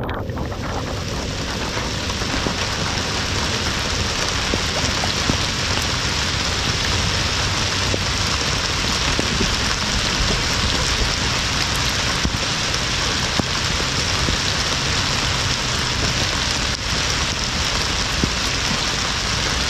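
Steady rain falling on the lake and the boat, an even hiss that starts abruptly and holds throughout.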